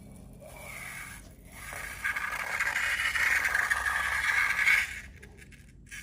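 Slime being worked by hand, a crackling scrape. It is softer at first with a short break about a second in, louder from about two seconds, and it stops suddenly a second before the end.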